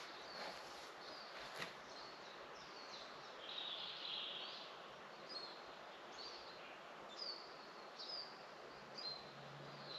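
Small birds calling faintly: short, high chirps and quick down-slurred notes about once a second, with one longer twittering phrase a few seconds in. A single faint click sounds about one and a half seconds in.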